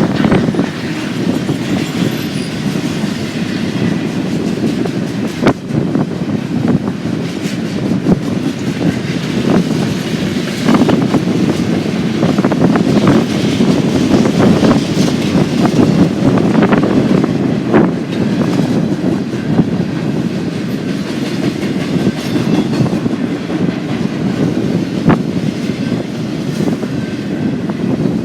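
Freight train cars rolling past, a steady loud rumble of wheels on rail with irregular clacks and knocks.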